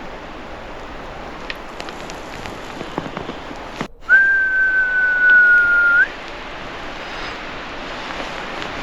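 A single steady, high whistle held for about two seconds, sagging slightly in pitch and turning up briefly as it stops. It stands out over a continuous background hiss, just after a momentary cut in the sound.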